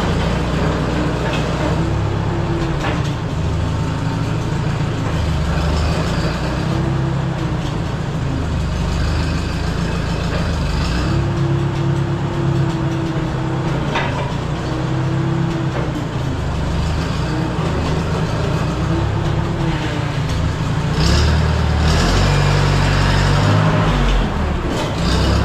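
Case 310 crawler dozer running as it is driven back and forth after a clutch replacement, its engine note rising and falling several times. A few sharp clanks come through, and it grows louder near the end.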